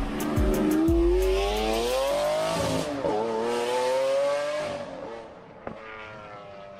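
Car engine accelerating hard: its note climbs, drops at a gear change about three seconds in, climbs again and then fades away, with tyre squeal from wheelspin.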